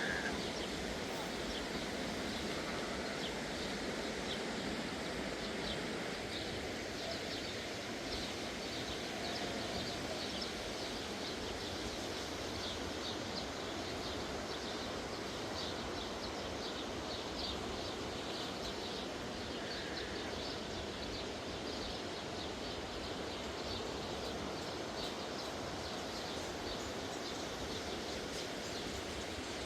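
Outdoor ambience: a steady rushing noise with many short, high chirps of small birds repeating irregularly through it.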